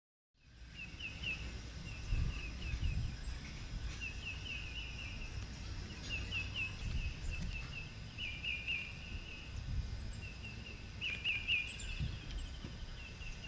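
Birds calling with many short, rapid chirping notes in clusters, over a steady low rumble.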